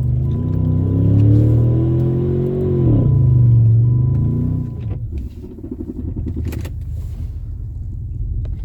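Jeep Commander engine revving hard under load while the SUV ploughs through deep snow: the pitch climbs for about three seconds, falls away and drops to a lower, steadier run about five seconds in. A thin, steady high tone runs alongside for the first five seconds.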